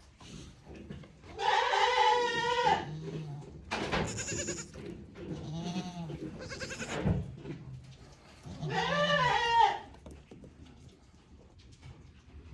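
Goats bleating: two long, loud bleats, one about a second in and one near nine seconds, with fainter shorter calls between them.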